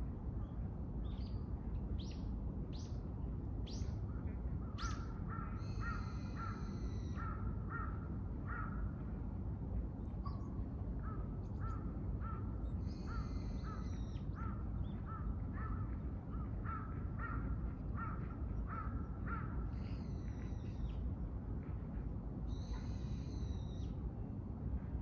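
Birds calling: a long series of short repeated calls, about two a second, and higher chirping calls, over a steady low background rumble.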